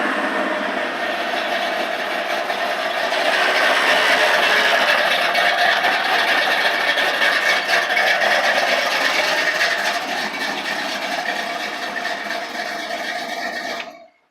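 Chevy 305 small-block V8 with a Comp Cams XE268H camshaft, stainless headers and 3-inch exhaust with welded mufflers running steadily, a little louder from about three seconds in; the owner says it has a couple of small exhaust leaks. The sound stops abruptly near the end.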